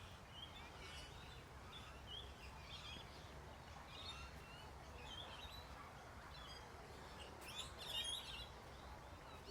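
Birds chirping and calling softly over a faint low background rumble, with a louder flurry of calls about eight seconds in.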